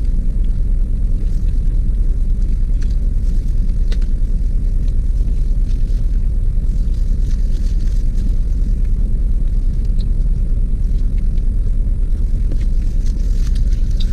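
Steady low rumble inside a car cabin, the car's engine idling. Small scattered clicks and rustles come over it from a plastic-gloved hand picking at rice and chicken in a paper wrapper.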